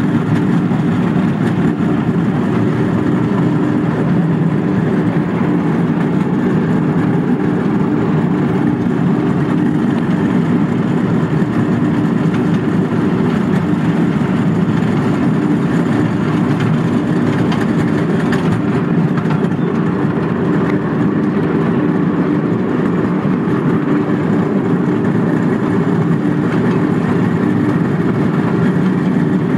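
Small park train running steadily along its track, heard from an open passenger car: a constant, unchanging drone.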